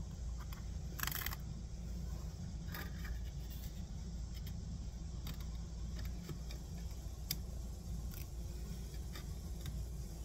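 Light clicks, rattles and a short rustle from handling small metal parts and tools during measuring, over a steady low hum.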